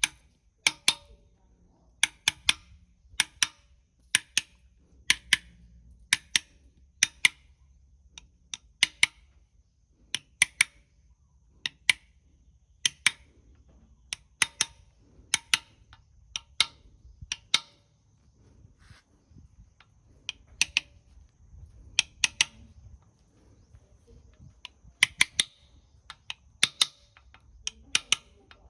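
Sharp metal-on-metal taps and clicks from hand tools working on an engine, mostly in twos and threes, about one group a second.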